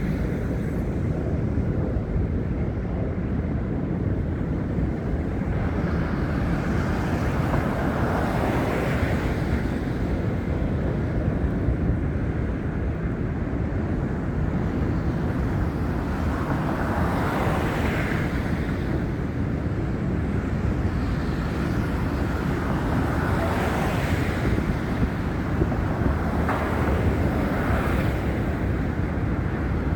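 Wind buffeting a phone microphone: a steady rumbling roar with a few louder swells, and faint traffic behind it.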